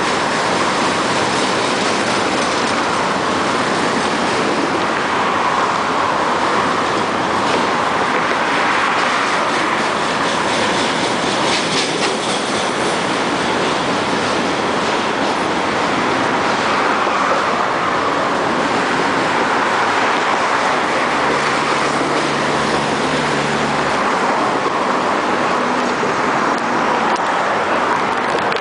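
Freight train's loaded container cars rolling past below, steel wheels on the rails making a loud, steady noise.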